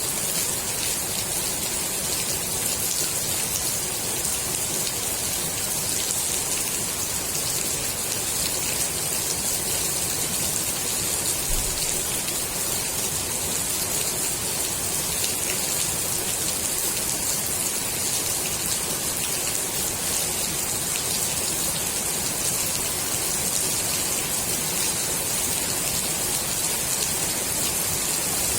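Steady rain falling onto the water of a swimming pool, an even patter that neither builds nor fades.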